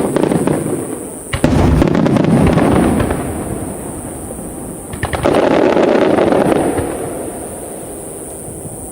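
Aerial firework shells bursting: three big booms, at the start, about a second and a half in and about five seconds in, each followed by dense crackling that fades over a second or two.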